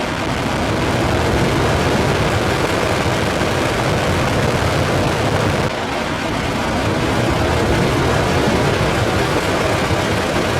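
Space shuttle rocket engines at launch: a loud, steady rushing rumble with a brief dip about six seconds in.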